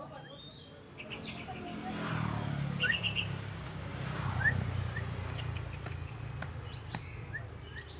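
Scarlet minivet (mantenan) calling: scattered short, sharp rising chirps and a quick run of high notes, over a low rumble of background noise through the middle.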